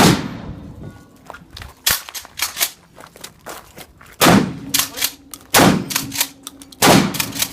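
A series of hard, sharp blows with a short low ring after each, the loudest landing roughly every second and a half in the second half.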